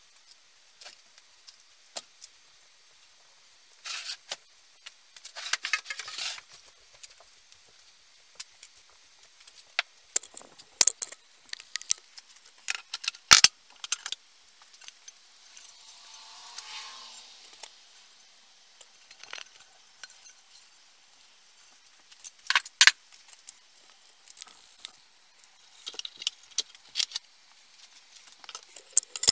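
Metal parts and hand tools clinking, rattling and knocking in irregular bursts while an old chainsaw is worked on, with a few sharper knocks and a brief soft hiss about halfway.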